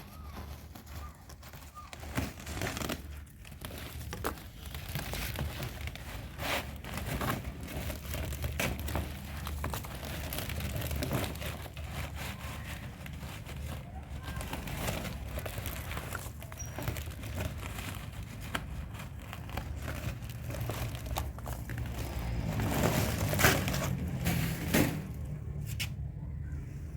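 Kitchen food chopper in use on ingredients: a dense run of irregular clicks and rattles, growing louder for a moment about three-quarters of the way through.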